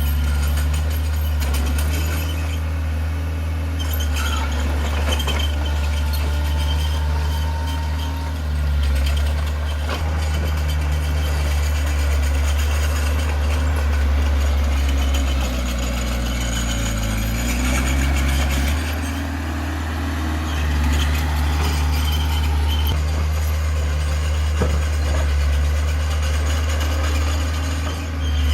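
Heavy equipment's diesel engine running steadily, from the bulldozer or the dump truck at work. Its pitch dips and recovers just over halfway through, as the engine takes a load, and a scatter of faint clicks and rattles sounds over it.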